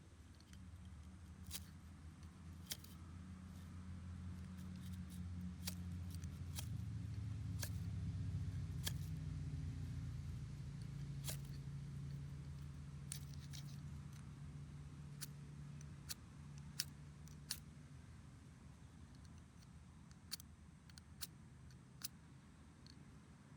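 A distant engine passing by: a low drone that swells to a peak about nine seconds in, drops slightly in pitch, and fades away. Sharp clicks and taps come now and then throughout.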